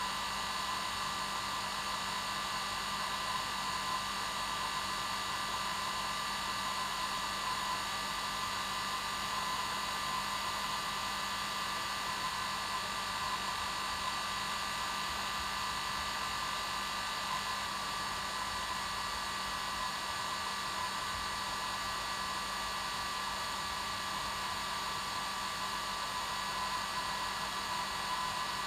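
Hair dryer running steadily: a continuous rush of air with a steady motor whine under it.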